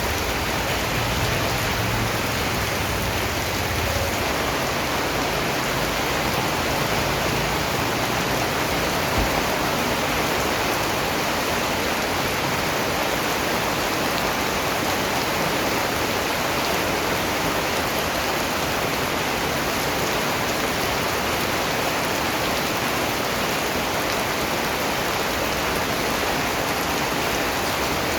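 Steady rain falling, an even hiss of many drops with no pauses, and a faint low rumble in the first few seconds.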